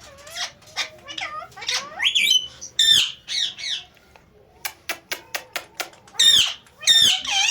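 Ringneck parrot calling: a string of loud squawks and chirps that slide up and down in pitch, with a quick run of about eight sharp clicks in the middle.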